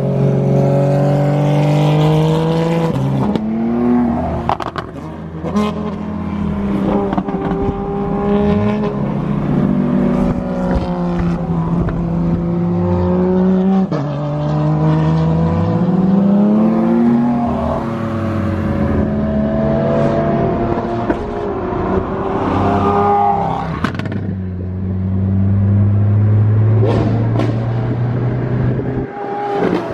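High-performance supercar engines accelerating hard, the engine note climbing and then dropping back again and again as it shifts up through the gears, with a few sharp exhaust cracks in between.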